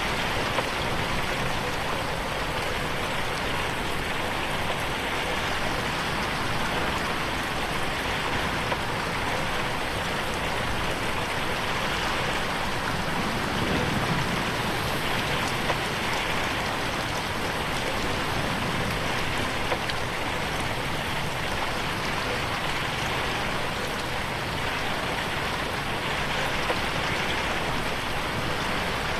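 Steady rain pattering on a window pane, with a sharper drop tap every few seconds. The audio is processed in 8D, so the rain seems to pan around the listener's head.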